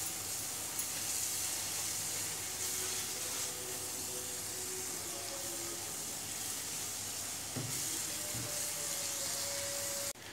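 Onion, tomato, ginger-garlic and ground-spice masala sizzling steadily in a frying pan while a spatula stirs it, with a few faint knocks. This is the bhuna stage, with the spices being fried into the masala. The sizzle cuts off suddenly just before the end.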